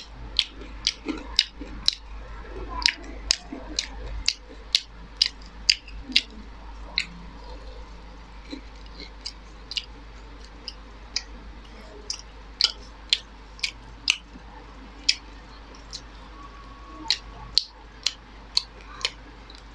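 Close-up chewing of a fried chicken momo: sharp smacking and crunching clicks from the mouth, several a second for the first seven seconds, then sparser.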